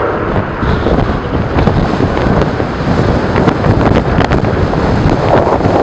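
Strong wind buffeting the camera microphone in loud, uneven gusts, a heavy low rumble with no clear tone.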